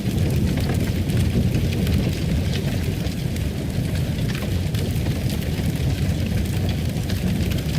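Wood fire in a fireplace crackling and popping in irregular snaps over a steady low roar.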